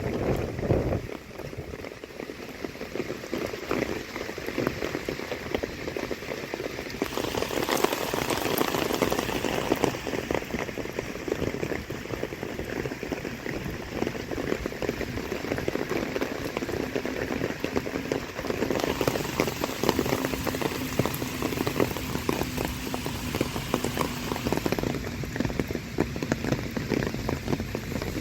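Heavy typhoon rain falling, a dense patter of drops close to the microphone that grows heavier for a stretch from about seven seconds in. A brief low rumble of wind on the microphone in the first second.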